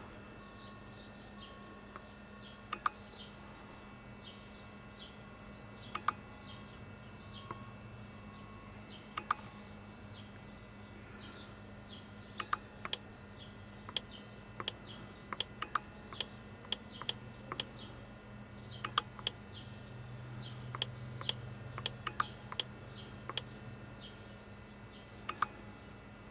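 Scattered sharp clicks and taps at an irregular pace, sparse at first and coming more often from about halfway through, over a steady low hum.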